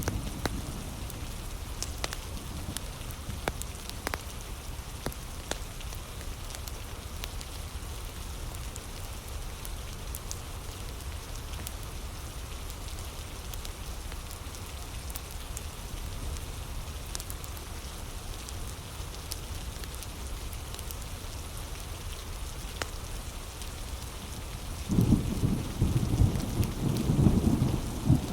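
Steady heavy rain with scattered sharp crackles from a wood fire. About 25 seconds in, a low rumble of thunder comes in suddenly and louder than the rain.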